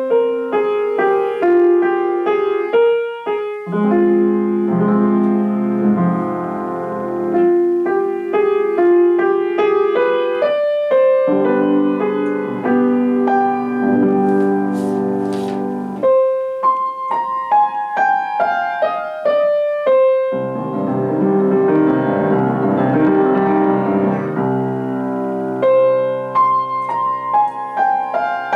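Solo piano playing a classical-style composition: a melody of single notes over held lower chords.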